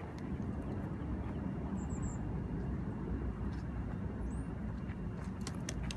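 Steady low rumble of background noise, with no distinct event standing out.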